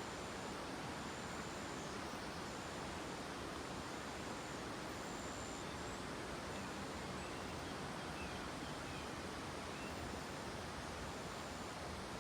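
Mountain forest ambience: a steady, even rushing hiss, with a high, thin insect trill that starts and stops every second or so, and a few faint bird chirps in the middle.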